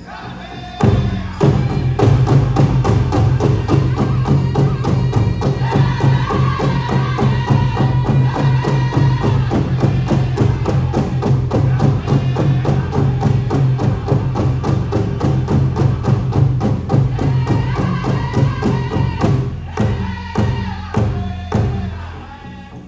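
Powwow drum group: a large drum struck in a steady, fast beat with voices singing over it, the beat breaking into a few separate strikes near the end.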